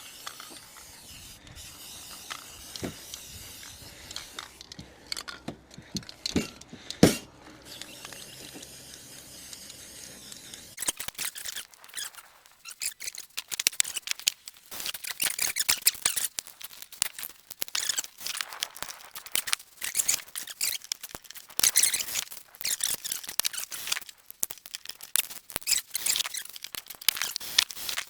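A paintbrush scratching primer onto the roof in quick, repeated strokes. The scratching is dense and continuous from about eleven seconds in, after a quieter stretch with scattered clicks and one sharp knock about seven seconds in.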